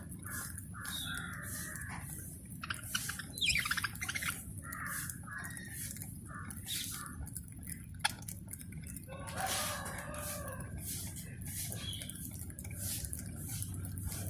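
Small parrots chattering, with short chirps and squawks and one longer, lower call about nine seconds in, over many short, sharp ticks and clicks.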